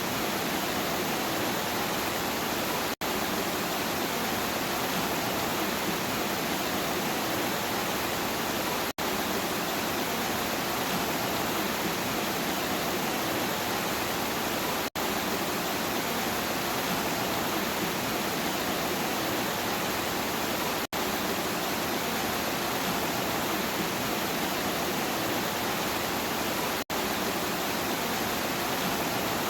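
Steady, even rush of heavy rainfall, cutting out for an instant about every six seconds.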